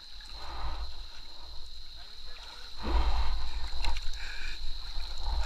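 River water sloshing and splashing close to the microphone, with a heavy low buffeting rumble and brief muffled voices about four seconds in.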